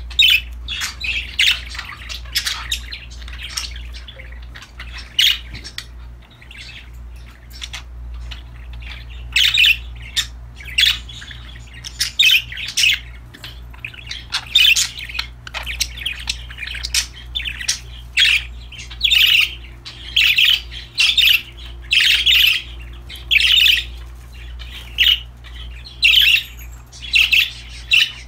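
Pet budgerigars chirping in a string of short, sharp calls, about one or two a second, busier after the first few seconds, over a steady low hum.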